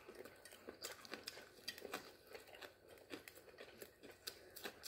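Faint, irregular crunching and clicking of someone chewing dried fish (bulad) with rice, close to the microphone.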